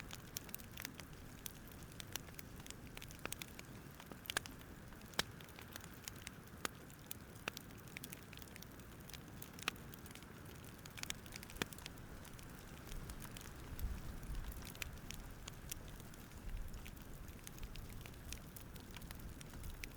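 Wood campfire crackling faintly: irregular sharp pops and snaps over a low, even hiss.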